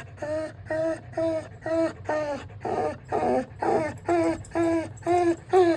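A dog whining in a rapid, regular series of short pitched cries, about two a second.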